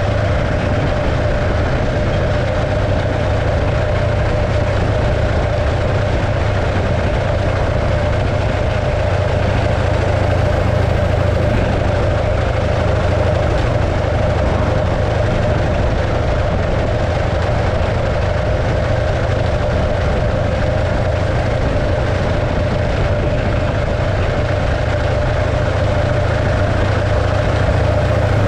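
1915 Arcade motorcycle's 650cc JAP V-twin engine running steadily at an even speed.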